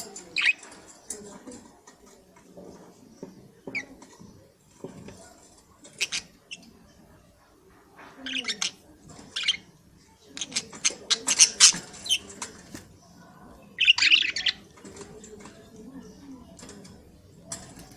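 Budgerigars chirping and chattering. Short sharp chirps come on and off, with a dense flurry of rapid chirps a little past the middle and another burst shortly after.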